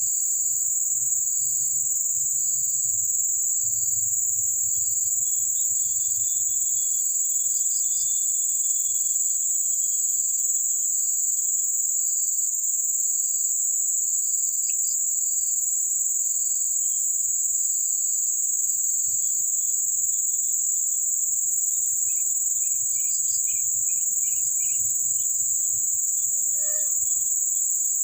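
Insects calling in tropical forest: a steady, loud, high-pitched drone, with another insect chirping in an even, regular pulse. Near the end, a short run of quick notes.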